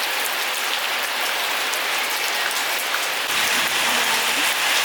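Steady rain falling, an even hiss that grows a little louder just past three seconds in.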